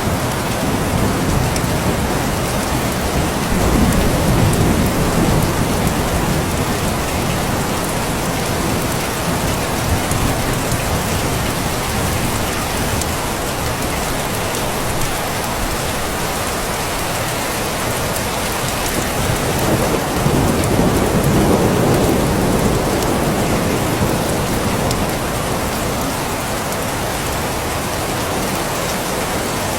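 Steady heavy rain falling, with low rumbles of thunder swelling up about four seconds in and again around twenty seconds in.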